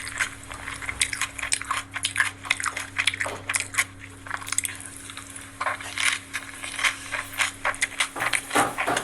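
Close-miked eating sounds: chewing and crunching food, with many quick crackly clicks, over a steady low hum.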